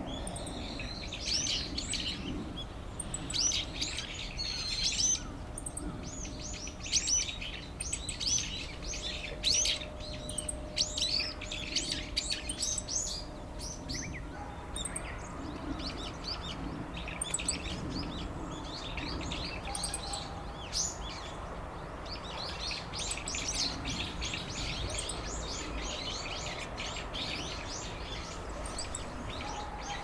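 Small wild birds chirping, with many short high calls in quick succession. The calls are thickest in the first half, thin out for a few seconds past the middle, then pick up again, over a steady low outdoor background.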